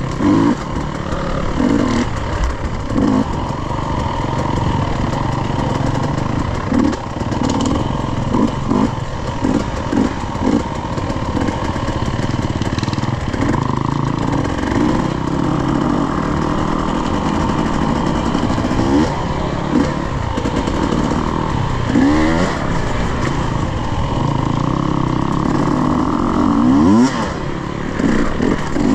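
Off-road dirt bike engine running on a trail, revving up and down again and again with short bursts of throttle.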